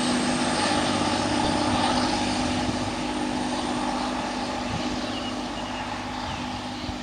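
Class 185 diesel multiple unit's underfloor Cummins diesel engines running steadily with a held drone as the train pulls away, slowly fading as it moves off.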